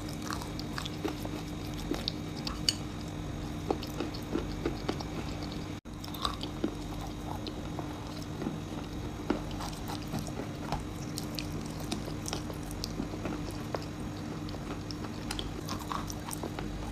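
Close-up chewing and crunching of edible chalk and clay: irregular crisp crunches and clicks over a steady low hum. The sound cuts out for a moment about six seconds in.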